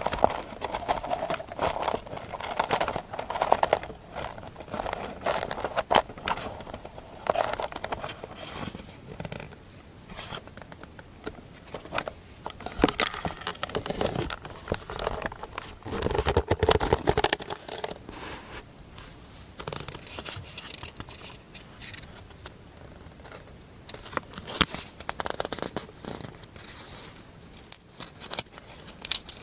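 Close-up paper crafting sounds: scissors snipping paper, mixed with paper rustling and tearing in short, irregular bursts.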